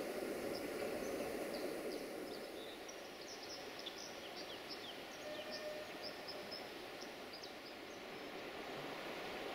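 Small birds giving many short, high chirps over a steady rushing background, which eases a little after about two seconds.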